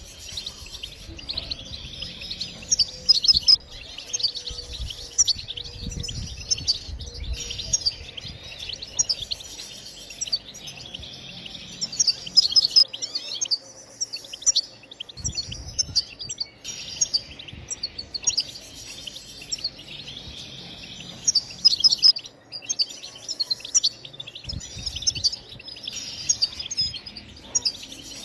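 European goldfinch singing its fast twittering song: a dense run of high chirps and trills, almost unbroken, pausing only briefly twice.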